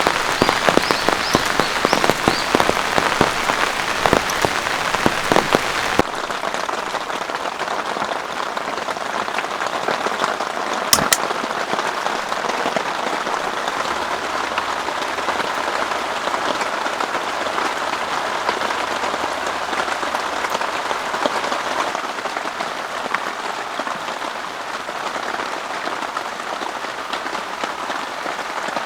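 Heavy rain falling. For the first six seconds many close, sharp drops patter loudly; then it changes abruptly to a steady, even rain hiss, with a single sharp tap about eleven seconds in.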